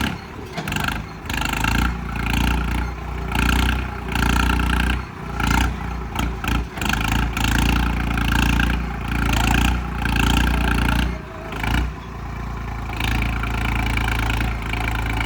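Tractor diesel engine revving in repeated surges, about one a second, then settling into a steadier run near the end.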